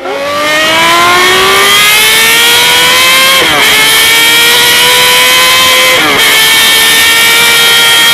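Honda CBX1000's 1047cc inline-six accelerating hard at full throttle, its pitch climbing steadily. It shifts up twice, about three and a half and six seconds in, each shift a quick drop in pitch before it pulls up again.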